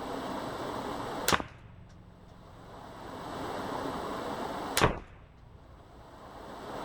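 Two unsuppressed .22 LR rifle shots from a semi-automatic Ruger LVT firing CCI standard-velocity rounds, about three and a half seconds apart, each a sharp crack. A rushing background noise swells between the shots.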